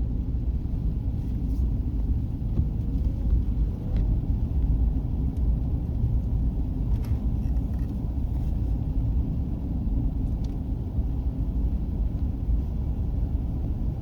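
A car driving at steady speed: a constant low road and engine rumble heard from inside the cabin, with a few faint ticks.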